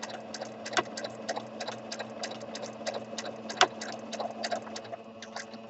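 Sewing machine running at a slow, steady speed during free-motion stitching: motor hum with rapid, even ticking of the needle, which stops at the end.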